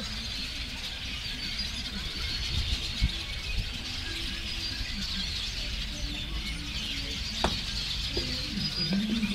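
A large flock of small birds calling and chattering continuously, many voices overlapping, with a low rumble of wind on the microphone underneath.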